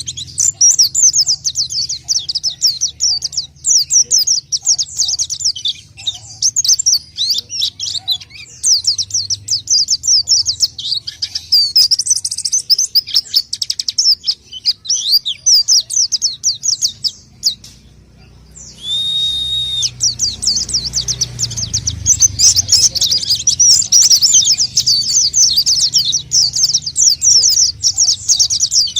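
White-eye (pleci) singing a rapid, continuous high twittering song, as played for luring birds. The song breaks off briefly about two-thirds of the way through, a short steady whistle sounds, and the twittering resumes. A faint low hum runs underneath.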